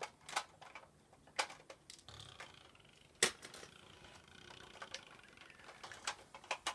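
Toy building blocks clicking and knocking together as they are handled and fitted, about half a dozen sharp clacks at uneven intervals, the loudest about three seconds in.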